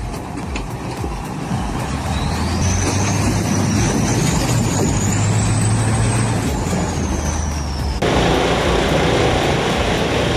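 A heavy timber truck's engine running hard under load, with a thin high whine that climbs and then falls away. About eight seconds in, the sound cuts abruptly to a different, denser machine noise.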